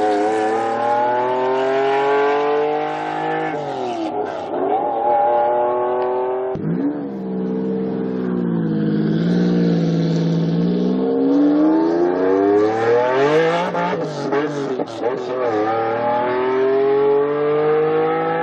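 Lamborghini Diablo V12 engine accelerating hard, its pitch climbing steadily and then dropping back at each gear change, several times over.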